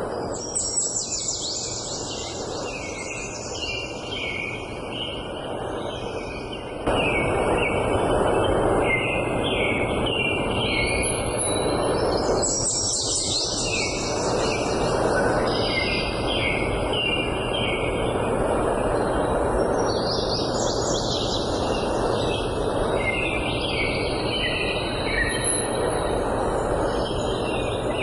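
Songbirds singing, several short repeated phrases overlapping, over a steady background noise that gets louder about seven seconds in.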